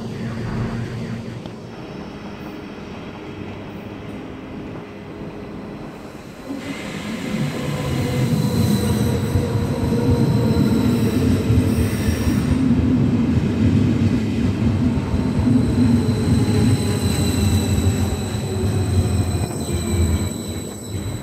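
DB class 4110 Intercity 2 double-deck electric multiple unit (Stadler KISS) running into the platform. Its rumble builds from about six seconds in and stays loud, with tones falling in pitch as it slows and a thin high whine above.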